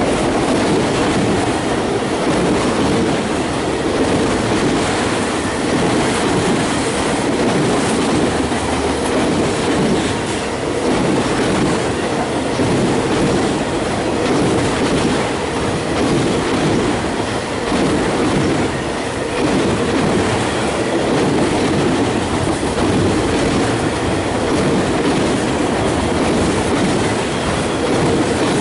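Autorack cars of a long freight train rolling steadily past on steel wheels and rails, a continuous even rolling noise.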